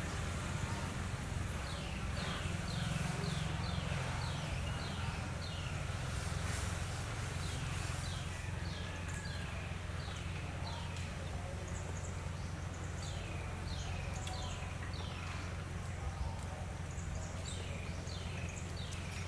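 A bird calling in runs of short, high chirps that slide down in pitch, several a second, in repeated groups, over a steady low rumble.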